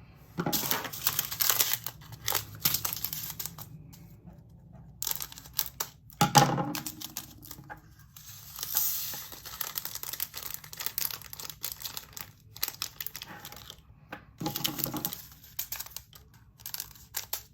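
Small plastic baggie of resin diamond-painting drills crinkling as it is handled, with many small clicks of the drills spilling and scattering into a plastic storage container.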